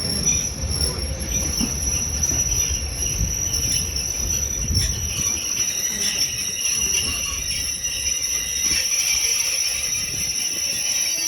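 Heritage railway train running, a low rumble under a steady high-pitched squeal from the wheels or brakes.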